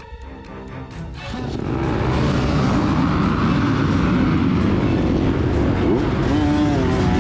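Many dirtbike engines revving hard together, swelling up about a second in and staying loud with pitch rising and falling: a pack of off-road motorcycles launching off a race start.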